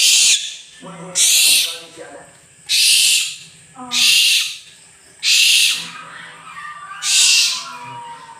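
An owl giving harsh, hissing screeches, six in a row, each about half a second long and roughly one every second and a half.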